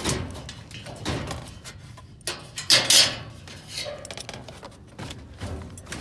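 Metal hardware being rummaged and shifted in a dumpster: a run of irregular clattering knocks and scrapes, loudest about three seconds in.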